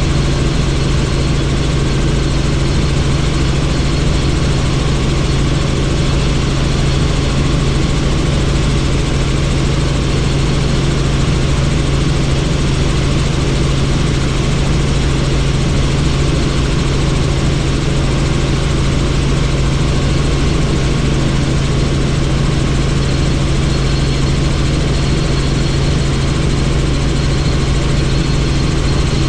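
Helicopter in steady cruise flight, heard from on board: a constant loud drone of rotor and turbine with a strong low hum, under a dense rushing noise from the doors-off cabin.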